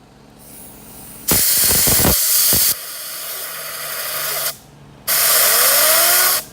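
Compressed-air blow gun blasting air into a removed Mercedes Sprinter T1N turbocharger to clean it and spin its wheel: two loud bursts of hissing air, the first about a second in and the second near the end, with a quieter hiss building between them. Faint rising tones sound during the second blast.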